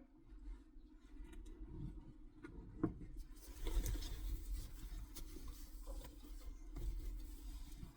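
Rustling and rubbing of a fabric car seat cover being pulled and fitted over a seat, with scattered small clicks and a knock about three seconds in.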